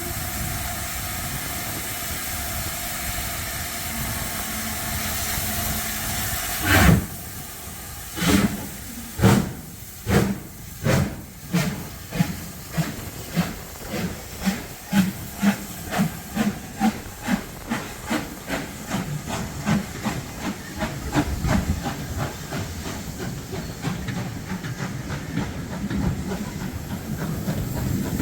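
Black 5 No 45212, an LMS two-cylinder 4-6-0 steam locomotive, hissing steam, then starting away about seven seconds in with slow, heavy exhaust chuffs that quicken steadily and run together near the end.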